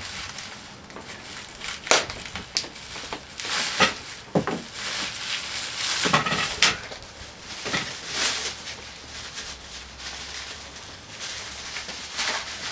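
Parts and packaging being handled: a series of sharp knocks and clatters mixed with rustling and crinkling, busiest in the middle.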